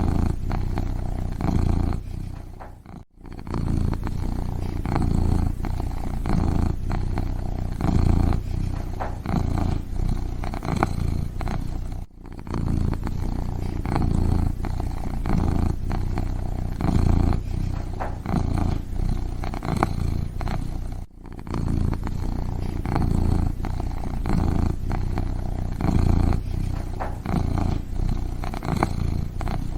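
A kitten purring steadily in a continuous rapid rumble, briefly breaking off about every nine seconds.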